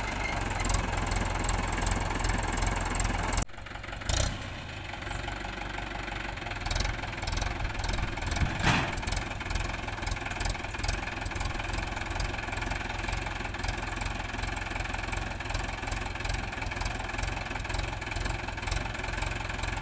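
Mahindra 415 DI tractor's four-cylinder diesel engine running with a steady knocking clatter. The level drops suddenly about three and a half seconds in, then the engine carries on.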